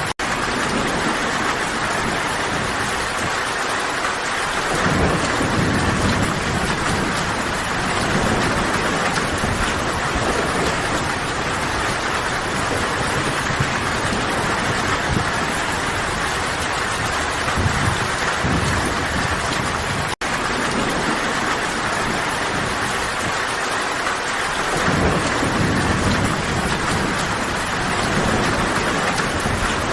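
Steady, heavy rain falling in a forest, with low rolling rumbles of distant thunder swelling a few times. The sound cuts out for an instant twice.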